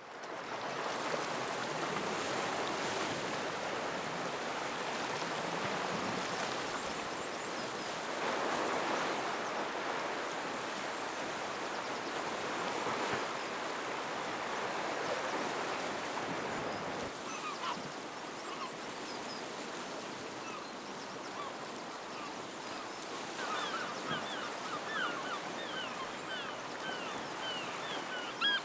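Sea surf washing against the shore in slow swells, with birds joining in about two-thirds of the way through, many short repeated calls coming thick and fast near the end.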